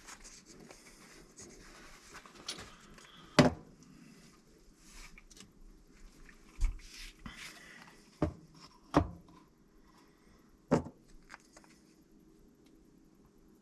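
Work noises while a gas water heater is being installed: about five scattered knocks and clunks, the loudest about three and a half seconds in, with rustling between them.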